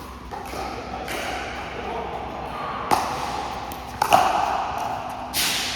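Pickleball paddles striking the hard plastic ball in a rally: sharp pops about three seconds in, a quick pair about a second later, and a louder one near the end, over a background of voices.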